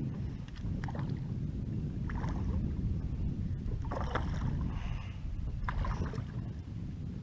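Small pedal boat moving on water: intermittent splashing and churning over a steady low rumble.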